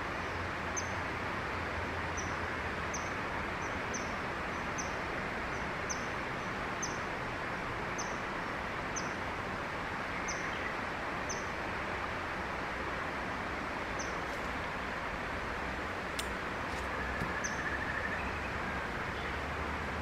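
A bird's short, high chirps, each falling slightly in pitch, repeated about once a second and then stopping, with one more near the end, over a steady background hiss.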